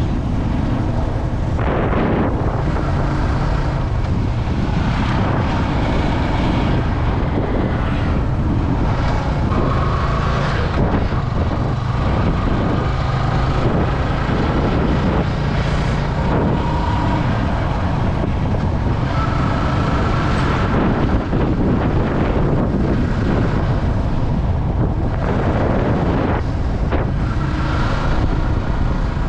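Yamaha R15 V3's single-cylinder engine running steadily under way, with wind buffeting the action camera's microphone.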